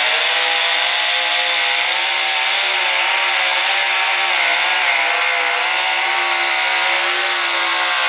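Two-wheel-drive pulling truck's engine held at full throttle under load, a loud, steady high-revving scream whose pitch wavers slightly as the truck pulls.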